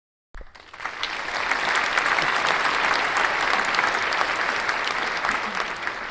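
Applause from a crowd, many hands clapping at once, building over the first second, holding steady, and dying away near the end.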